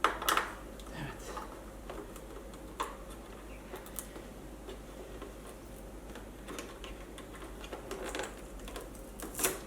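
Scattered light clicks and taps from hands working a wiring clamp inside an electric unicycle. The sharpest clicks come just after the start and again near the end.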